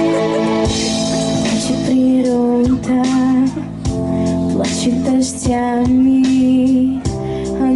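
A pop-style song with an instrumental backing track, and a female voice singing the melody from about two seconds in.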